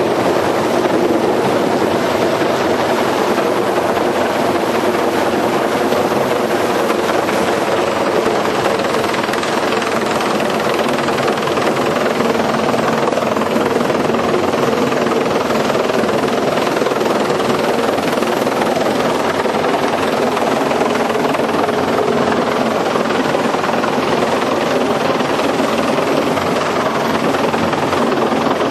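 Helicopter in flight: a steady, loud run of engine and rotor noise with no change in pitch or level.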